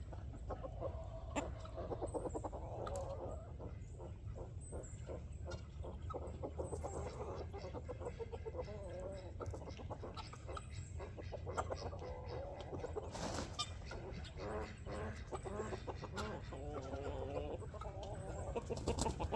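A flock of hens clucking and murmuring continuously close by, with many short sharp clicks among the calls.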